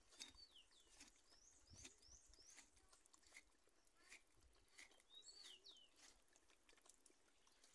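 Near silence with faint bird chirps, short quick rising and falling notes in a few small runs, and soft scattered ticks of a knife scoring a piranha's flank on a board.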